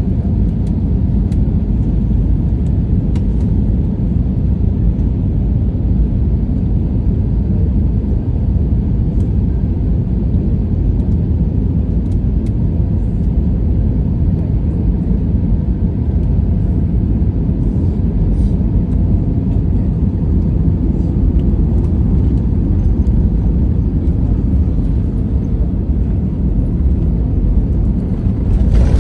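Airliner landing at high speed: a steady low rumble, with a brief louder rush near the end.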